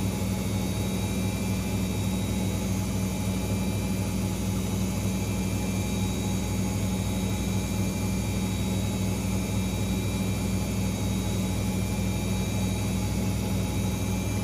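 Washing machine spinning steadily at 1200 rpm in its final spin: an even, unchanging whir with a low hum.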